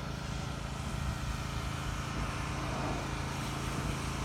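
A steady, low, even hum of an engine idling, over a background of outdoor noise.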